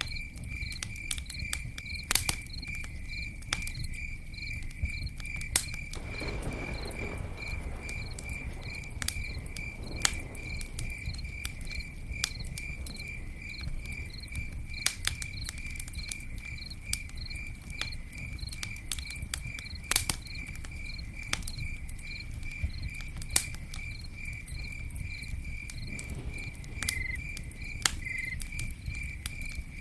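Campfire crackling with scattered sharp pops over a low steady rush. A cricket chirps steadily throughout in an even, rapid pulse.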